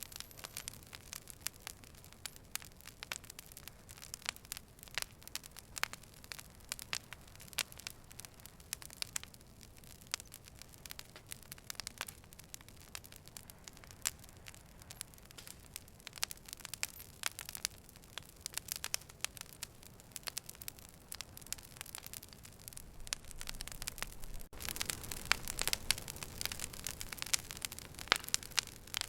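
Fire crackling: many sharp pops and snaps over a soft hiss. The hiss grows louder near the end.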